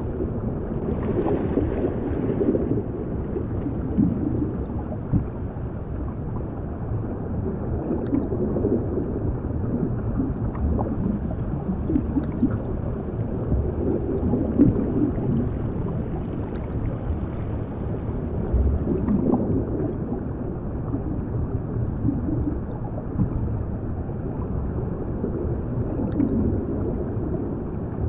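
Underwater ambience for a drowning sound effect: a steady dull rush of water with gurgling bubbles swelling up every few seconds.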